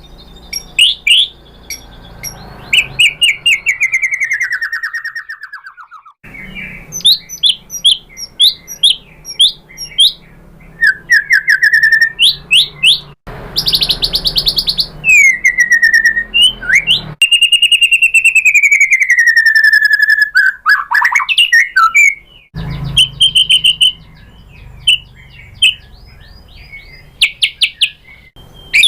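White-rumped shama (murai batu) singing a varied, loud song of sharp chips and quick whistled notes, with long slurred buzzy phrases sliding down in pitch about two seconds in and again around the middle. The recording is spliced: the song and its background hum cut off abruptly and change several times.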